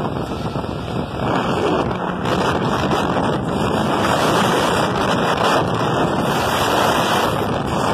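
Wind buffeting the microphone: a steady rushing noise that grows louder about a second in.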